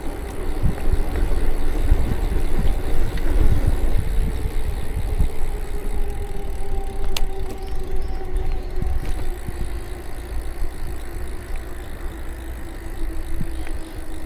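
Riding noise from a bicycle: wind and road rumble on the camera microphone, with a steady hum that slowly drops in pitch over the second half, and one sharp click about halfway through.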